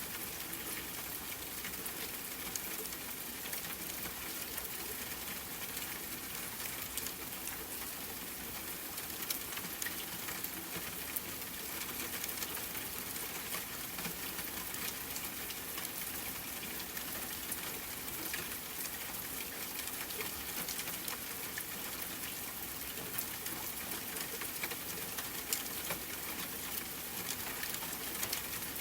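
Steady rain with scattered individual drops ticking, an even hiss that stays constant throughout.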